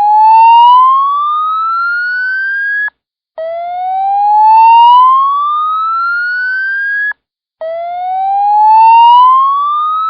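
Edwards EST fire alarm 'hi slow whoop' evacuation tone, raw from the panel: a loud rising whoop that sweeps up over about three and a half seconds, cuts off, and repeats after a short gap, three whoops in all.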